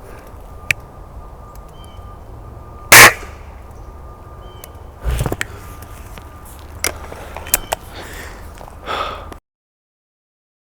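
A single loud shot from a Gamo Varmint .177 break-barrel spring-piston air rifle, a short sharp crack about three seconds in, fired at a squirrel. Smaller knocks and short calls follow, and the sound cuts off abruptly near the end.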